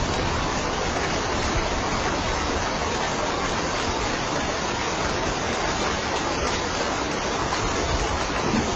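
Steady rain falling, a dense, even hiss without breaks or pauses.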